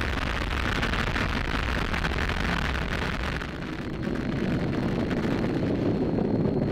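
Falcon 9 rocket's nine Merlin first-stage engines firing during ascent just after clearing the pad: a loud, steady rushing rumble that turns deeper about four seconds in.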